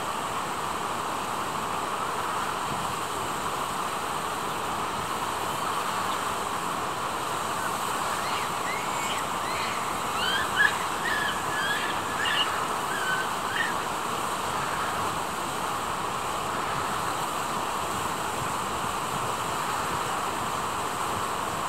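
Steady rushing of flowing water, with a run of short high chirps about halfway through.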